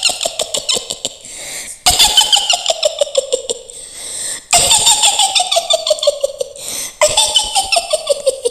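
Mak Lampir's high, cackling witch laugh, repeated four times in a row; each cackle is a fast run of pulses that slides down in pitch.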